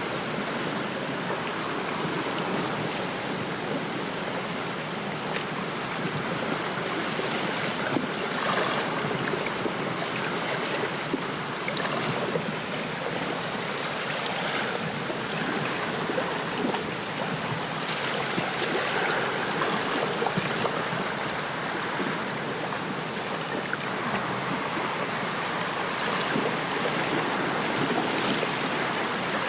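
Wind rustling through lakeside reeds while small waves lap at the shore: a steady rushing hiss with scattered small splashes.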